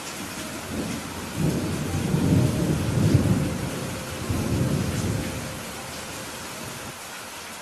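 Steady rain falling, with a roll of thunder that swells about a second and a half in, rumbles for a few seconds and dies away.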